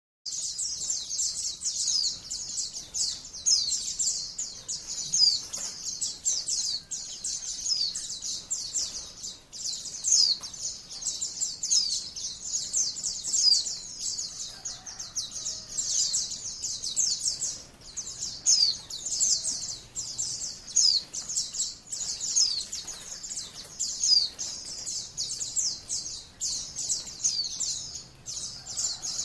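Pleci (Zosterops white-eye) singing a high-pitched, rapid, unbroken twittering song in the 'ngalas' style.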